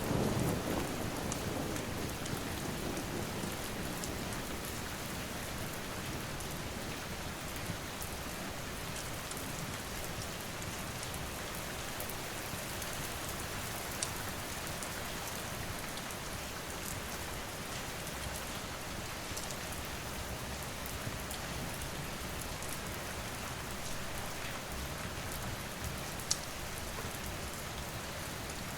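Steady rain falling, with a low rumble of thunder dying away in the first few seconds. A few sharp pops from a crackling fire stand out, the loudest about two-thirds of the way in and near the end.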